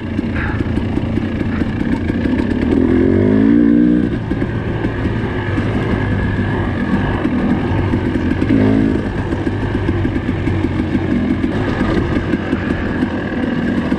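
Dirt bike engine running as the bike is ridden, with the revs climbing twice, about three seconds in and again about nine seconds in.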